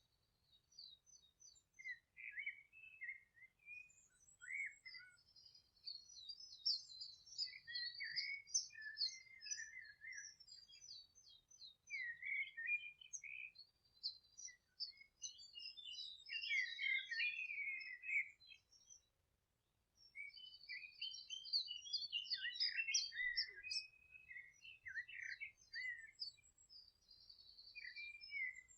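Several songbirds singing at once, a dense chorus of overlapping chirps and trills, with a brief pause about two-thirds of the way in.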